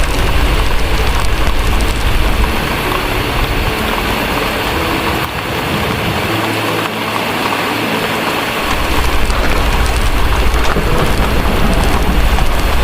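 Steady heavy rain with a deep rumble of distant thunder underneath; the rumble fades out a little after the middle and comes back a couple of seconds later.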